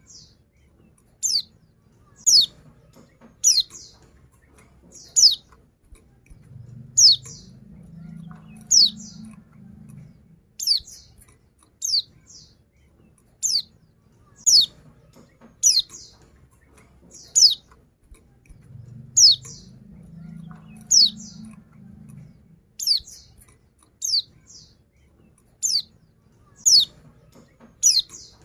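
Female pleci (white-eye) calling for males: short, high chirps slurring downward, repeated about once a second, sometimes in quick pairs. A faint low rumble comes in twice for a few seconds.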